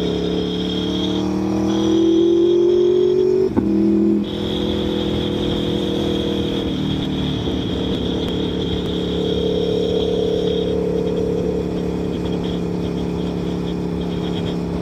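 Aprilia Tuono V4 1100's V4 engine pulling under acceleration, its pitch rising for about three and a half seconds, then dropping suddenly at an upshift before the bike cruises on steadily. Heard from inside the rider's helmet.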